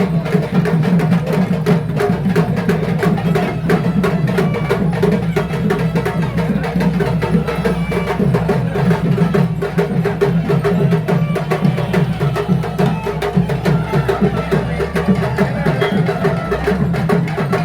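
Traditional percussion ensemble drumming fast, rapid strokes packed close together without a break, over a steady low drone.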